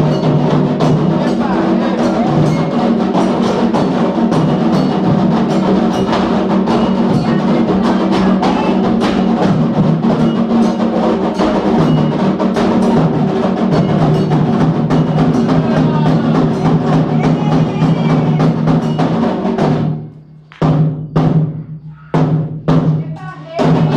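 Candomblé atabaque hand drums playing a fast, driving rhythm for Oyá's dance, with dense repeated strikes. About 20 s in, the drumming breaks off in several short stops and starts again near the end.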